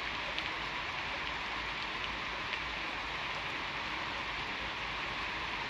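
Steady rain falling, a constant hiss with occasional sharper drop ticks.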